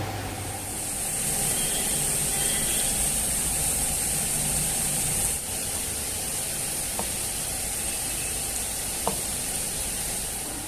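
A steady high hiss with a brief dip about five seconds in, and two faint clicks later on.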